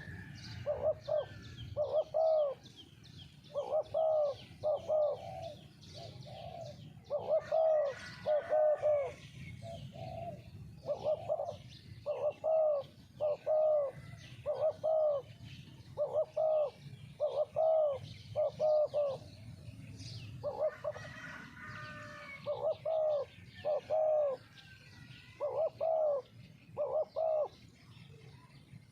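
Spotted doves cooing: a run of short, low coos in twos and threes, repeating every second or so, with small birds chirping high above them.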